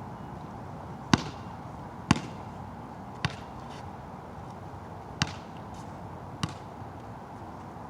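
A basketball bouncing on a wet court, five sharp thuds at uneven intervals, over a steady hiss of rain.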